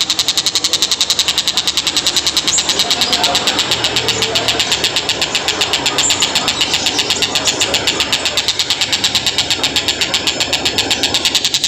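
Tengkek Buto kingfisher calling in a rapid, unbroken series of sharp high notes, about eight a second, steady in pace.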